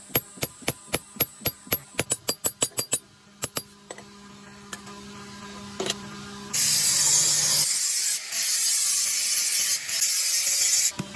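Rapid hammer blows on steel, about four a second, ringing sharply, then a few scattered taps over a steady low hum. About six seconds in, a loud harsh hiss starts, breaks off twice and stops near the end.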